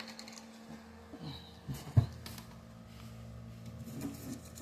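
Quiet room tone with faint handling noises and one sharp knock about two seconds in.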